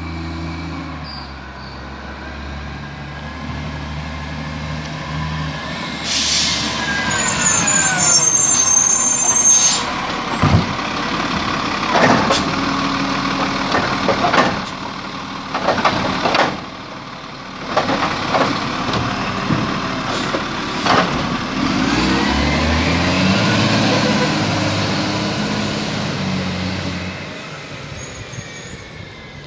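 Garbage truck at work: the engine revs up and down as the bin-lifting gear runs, with a burst of air-brake hiss and a series of loud bangs and clunks in the middle as a bin is handled and emptied, then the engine revs again and dies away near the end.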